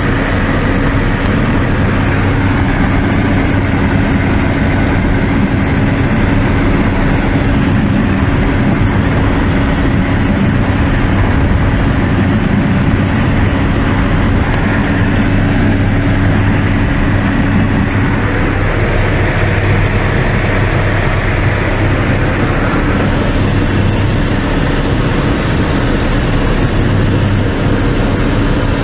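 Light aircraft's piston engine and propeller droning steadily in cruise, heard inside the cabin. Its tone shifts slightly about two-thirds of the way through.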